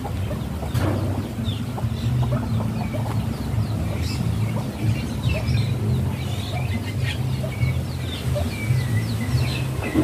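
Birds chirping in many short, quick calls and falling notes over a low, steady hum.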